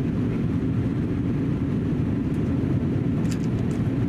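Steady in-flight cabin noise of an Airbus A320neo: a low, even rumble of the CFM LEAP-1A engines and the airflow past the fuselage. A few faint ticks come about three seconds in.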